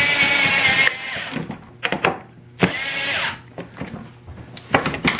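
Power drill driving wood screws into the wooden chest: the motor runs, winds down about a second in, runs again in one short burst, and is followed by a few light clicks and knocks of handling.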